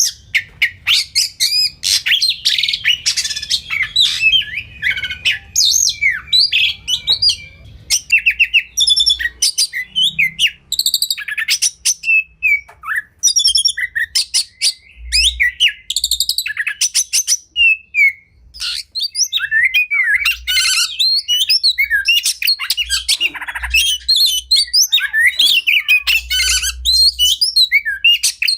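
Oriental magpie-robin (kacer) singing a fast, varied song packed with rapid trills, sharp chattering notes and quick whistled phrases, almost without pause.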